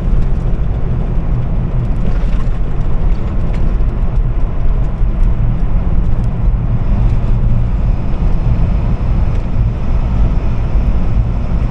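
Steady low rumble of a truck driving on the road, engine and road noise without a break.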